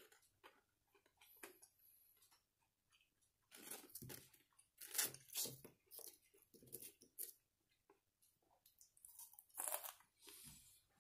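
A person chewing crisp deep-fried squid (ika karaage): irregular crunching bites, loudest around the middle and near the end.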